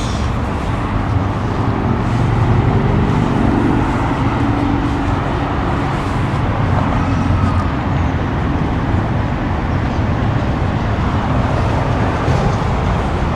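A car engine running close by amid steady low rumble, swelling a little about two to five seconds in.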